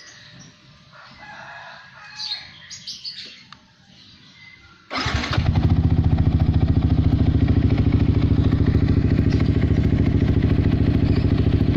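Yamaha R15 V3's 155 cc single-cylinder engine, breathing through a Prospeed Black Series aftermarket exhaust, starts about five seconds in and settles at once into a steady, evenly pulsing idle.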